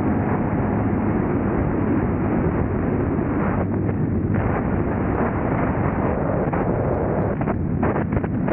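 2000 Honda Civic's D-series four-cylinder engine running while driving, mixed with heavy wind noise on the microphone.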